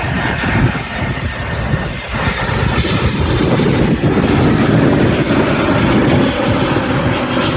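Jet engines of a Frontier Airbus A320 passing, a loud, steady rush that swells to its loudest about four to six seconds in and then eases slightly.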